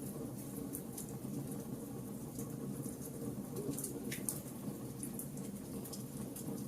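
Wood fire burning: a steady low rush of flame with scattered sharp crackles and pops, one of the clearer pops about four seconds in.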